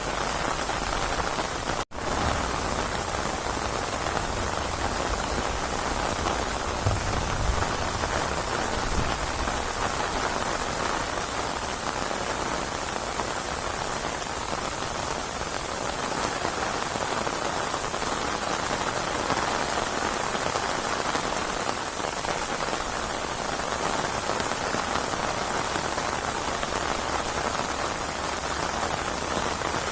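Steady rain falling hard, an even hiss of drops on surfaces, with the sound cutting out for an instant about two seconds in.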